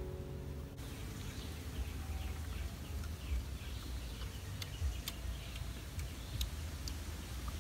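Music cuts off abruptly about a second in. Outdoor ambience follows: birds chirping repeatedly, a few sharp clicks, and the mouth sounds of someone chewing food.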